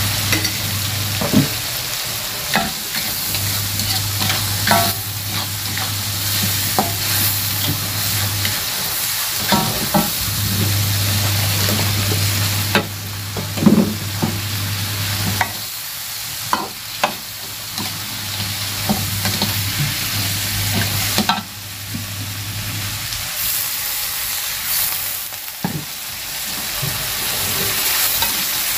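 Food sizzling in hot oil and chili sauce in a wok over a gas burner, with a metal spatula scraping and knocking against the wok again and again as it is stirred.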